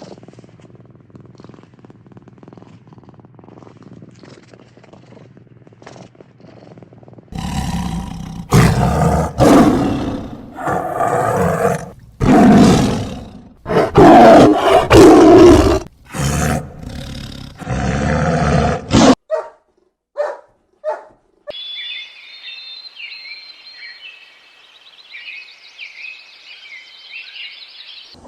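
A big cat roaring, loud calls repeated over about twelve seconds. Near the end, a high-pitched chirping or squealing sound follows.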